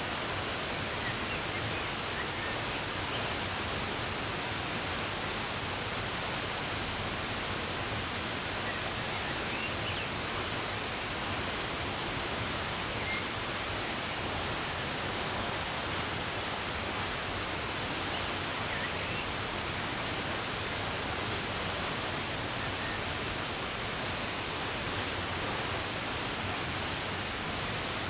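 Steady rush of running water, even and unbroken, with a few faint, scattered bird chirps above it.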